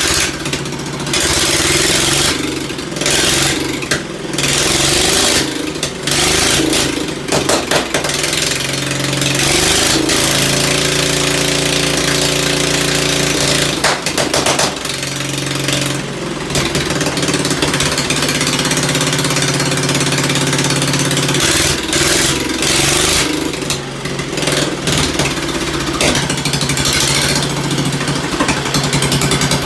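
Ford tractor's carbureted engine running, its speed rising and falling several times, with uneven firing and sharp pops. The owner blames the popping at low speed on a too-lean low-speed carburetor setting during tuning.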